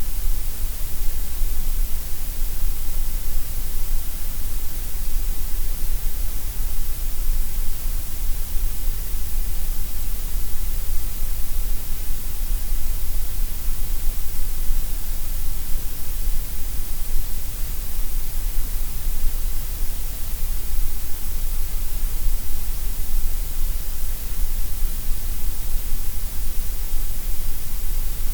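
Gray noise: a steady, unbroken hiss, fuller at the lowest and highest pitches and thinner in the middle.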